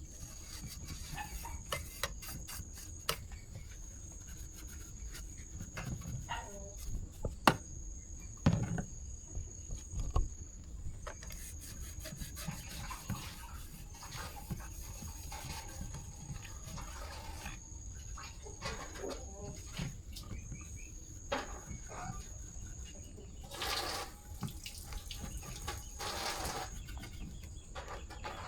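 Crickets trilling steadily in the background, over scattered clicks and knocks of parts being handled and a few short bursts of rushing noise near the end.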